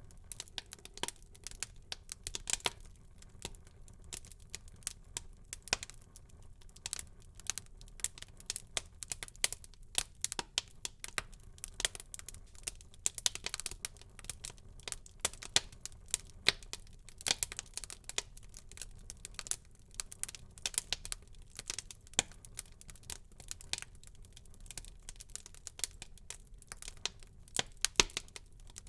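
Wood fire burning in a fireplace, crackling with dense, irregular pops and snaps over a soft low rumble of flame, and one sharper pop near the end.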